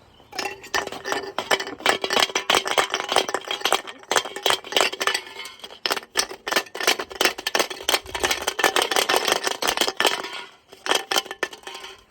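A brick tumbling inside a spinning Appliance UK integrated washing machine's drum: rapid, continuous banging and rattling over a steady hum, easing off briefly about ten and a half seconds in.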